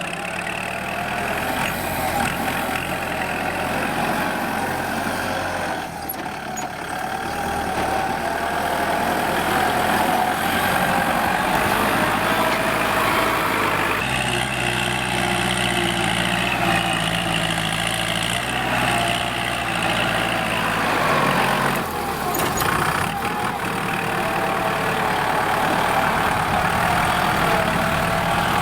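Kubota L4708SP tractor's diesel engine running under load while ploughing, a steady, loud engine note whose pitch shifts abruptly about halfway through and again some eight seconds later.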